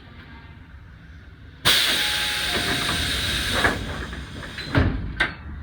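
Train's pneumatic door gear venting: a sudden loud air hiss about two seconds in that holds for a couple of seconds and fades, then a heavy thud and a sharp click near the end as the doors shut.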